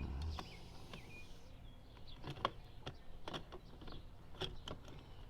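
Light, irregular clicks and taps of hand tools and small metal and plastic parts being handled on a Poulan Pro chainsaw during disassembly. A few faint chirps come in the first second.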